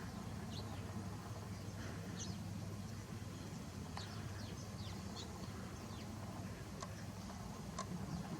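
Faint, scattered bird chirps, a dozen or so short high notes, over a steady low hum.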